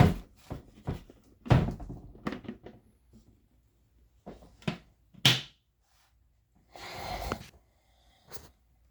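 Irregular plastic knocks and clunks from the Dirt Devil vacuum's dust bin being handled and emptied, with a short rustle about seven seconds in.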